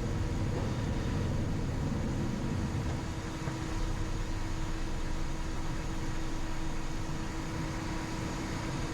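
Cockpit noise of a Cessna Citation XL twin turbofan business jet in its initial climb just after takeoff: a steady rush of engine and airflow noise with a constant faint hum running through it.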